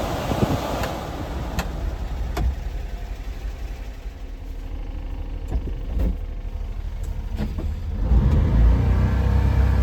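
A few sharp clicks, then about eight seconds in the 1995 Honda Acty truck's small three-cylinder engine comes in with a loud, steady low rumble.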